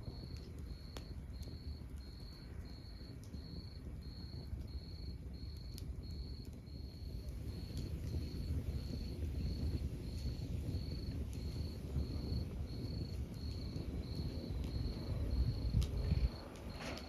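Log fire crackling with a low rumble and scattered sharp pops, with a cricket chirping steadily in an even rhythm of about two to three chirps a second.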